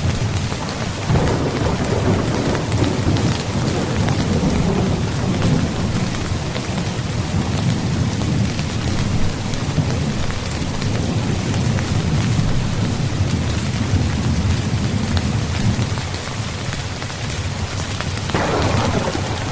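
Steady rain falling on a tent's fabric, with thunder rumbling low underneath; the thunder swells about a second in and again near the end.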